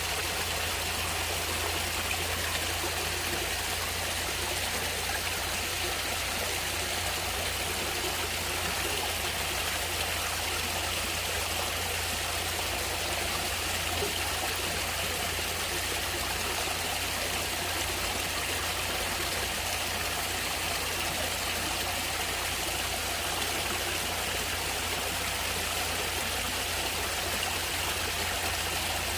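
Stream of water running steadily, an even rushing flow with no changes.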